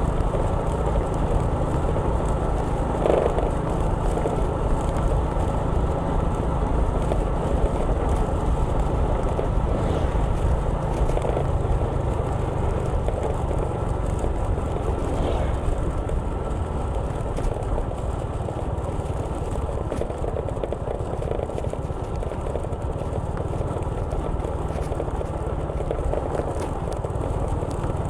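Steady rumble of a vehicle travelling along a street, with road and wind noise heaviest in the low end. It eases slightly past the middle, and a few faint, brief sounds stand out now and then.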